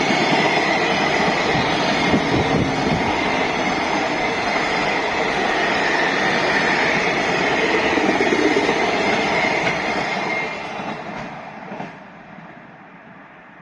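Freight train running past at close range, a loud, continuous rumble of wheels and cars that fades away near the end.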